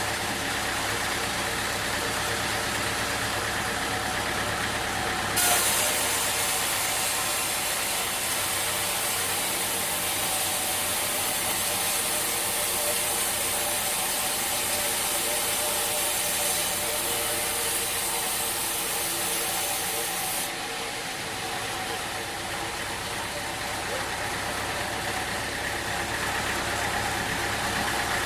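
A sawmill's engine running steadily. A loud, high hiss of the saw cutting through wood starts suddenly about five seconds in and cuts off about fifteen seconds later.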